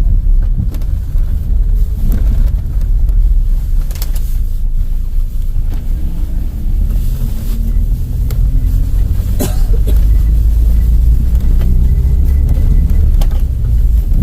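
Vehicle in motion: a steady low rumble with faint engine tones gliding up and down, and a few sharp clicks.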